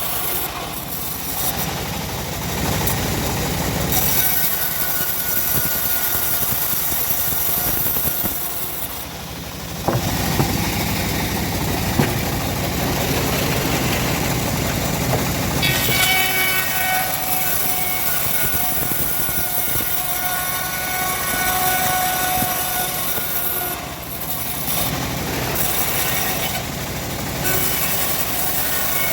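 Homemade bandsaw mill running and sawing through wood: a steady loud machine noise with a hiss and a whining tone that shifts as the blade cuts. It eases off briefly twice, about a third of the way in and again near the end.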